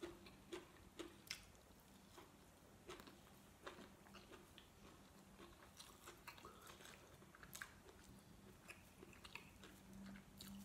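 Faint mouth sounds of a person chewing a mouthful of braised chicken liver with sticky rice, lips closed: soft, irregular wet clicks and smacks.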